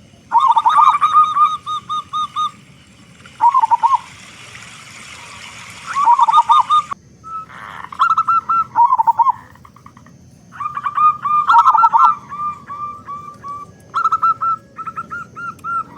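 Zebra dove (perkutut) cooing: several phrases of quick, rolling coo notes with pauses between them, two calls overlapping around the middle. A patch of hiss comes in for a few seconds early on.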